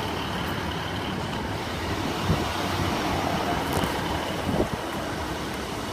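Class 150 Sprinter diesel multiple unit pulling into the station, a steady mix of diesel engine and wheel noise.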